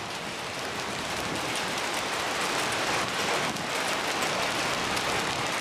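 Rain mixed with small hail pelting down in a dense, steady patter of many tiny hits, growing a little louder over the stretch.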